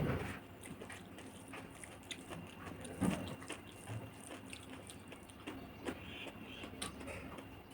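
Close-miked eating sounds: chewing with scattered small wet mouth clicks, and one louder click about three seconds in.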